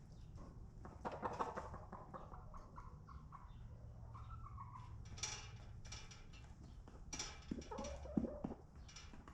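Chickens in a coop: scattered taps and knocks, with a few short clucks in between.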